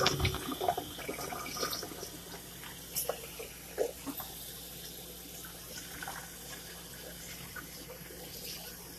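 Kitchen tap running faintly into a sink, with a sharp knock at the start and a few scattered knocks and clatters of handling in the first few seconds, over a steady low hum.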